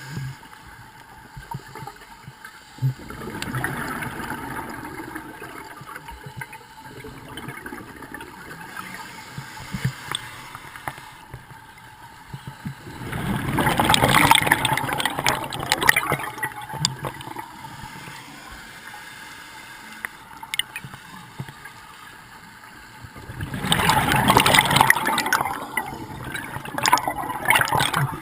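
Underwater bubbling from a scuba diver's regulator: the diver's exhalations come as loud gurgling bursts of bubbles about ten seconds apart, over a steady watery background.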